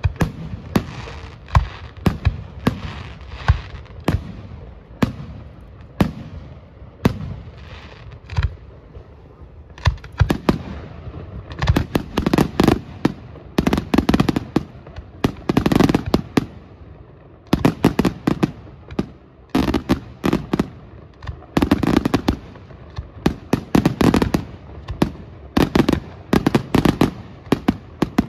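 Aerial fireworks display: shells bursting in quick, irregular succession with sharp bangs. From about ten seconds in, the bursts come in dense volleys of rapid crackling reports.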